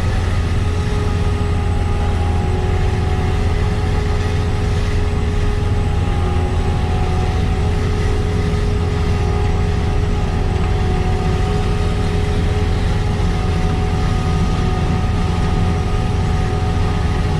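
Steady drone of a Kleine SF10.2 sugar beet harvester's diesel engine and working machinery, with a constant whine running over it.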